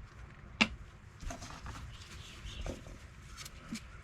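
Small handling noises at the workbench as paint stripper is readied for the tool: one sharp click about half a second in, then light rustling and a few small taps.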